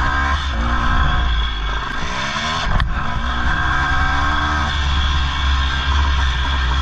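1983 Honda CR480R's two-stroke single-cylinder engine revving up and down repeatedly under hard riding, with a sharp knock about three seconds in.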